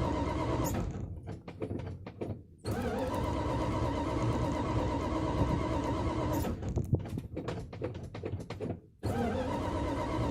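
Dodge engine running rough on a cold start: it twice sags and sputters with irregular popping, nearly stalling, then picks straight back up to a steady run.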